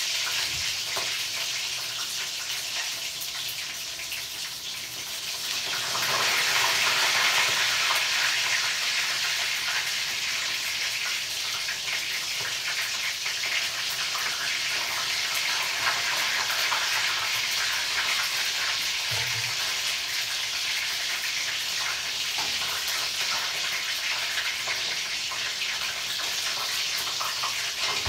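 Chicken pieces frying in hot oil in a wok on a gas stove, a steady sizzle with fine crackling that gets louder about six seconds in.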